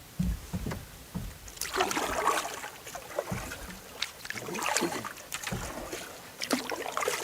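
Canoe paddle strokes in lake water: a series of splashes and drips, with a few low thumps in the first second.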